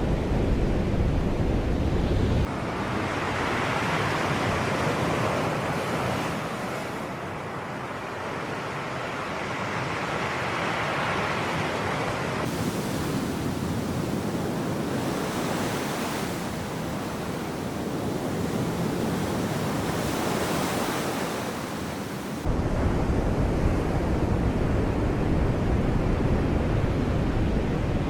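Sea surf washing on the shore, several swells of breaking waves rising and falling. A heavy low wind rumble on the microphone cuts out suddenly a few seconds in and comes back just as suddenly near the end.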